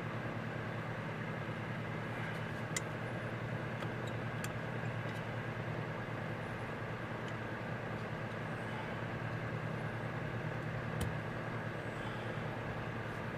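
Steady low mechanical hum in the background, with a few faint clicks from a hand tool picking at a stuck old gasket on a carburetor.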